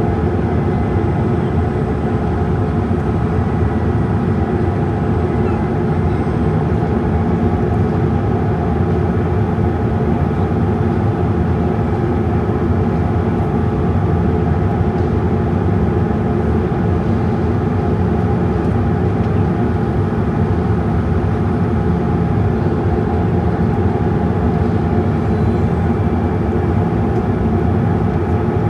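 Steady cabin noise inside a Boeing 787-8 Dreamliner airliner with its jet engines running, an even rush with a few faint steady tones and no change in level.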